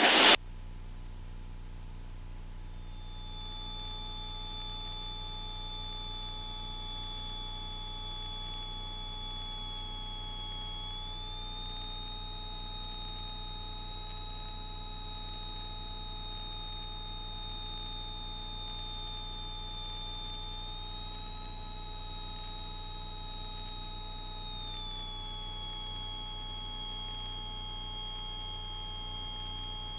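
Cessna 172S Skyhawk cockpit sound in flight, heard through the intercom audio: a low steady engine drone with a thin high-pitched whine over it. The whine steps up slightly in pitch about eleven seconds in and drops back near twenty-five seconds.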